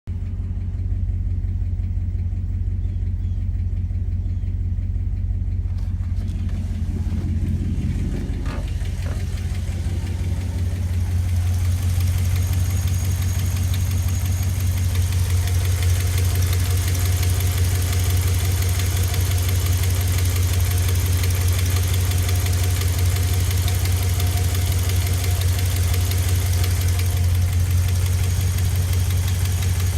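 4th-gen Ram's 5.7-litre Hemi V8 idling after a hot start, with a ticking noise. About eleven seconds in, a steady rushing noise grows louder and stays over the engine hum.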